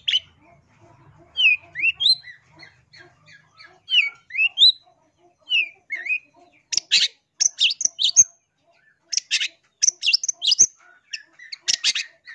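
Long-tailed shrike (cendet) calling: short rising whistled notes in the first half, then louder, harsh notes in quick runs from about seven seconds in.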